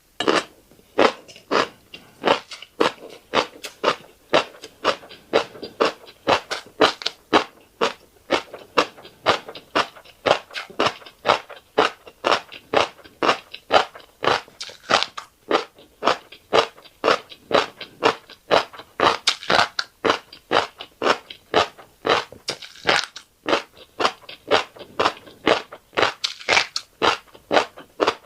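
Close-miked chewing of fish roe and rice: a steady run of wet, crackly crunches and clicks, about two to three chews a second.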